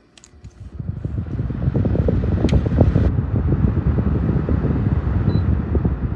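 Electric table fan running, its airflow buffeting the microphone in a loud, fluttering rush that builds over the first two seconds and then holds steady. A faint short electronic beep sounds about five seconds in.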